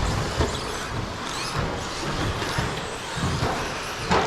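Electric 1/10-scale stadium trucks with 13.5-turn brushless motors racing on the track: a steady hiss of motors and tyres, with scattered low thumps and knocks.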